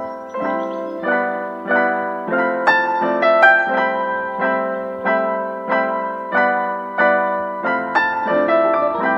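Background piano music: a gentle melody of struck notes about every half second to second, each note fading away.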